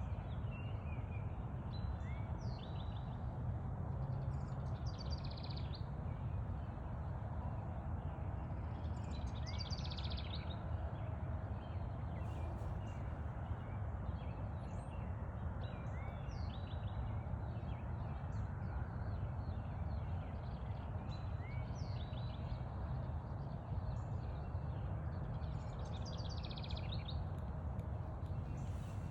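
Several songbirds singing, with short repeated phrases of quick high notes every few seconds and an occasional short rising call, over a steady low background rumble.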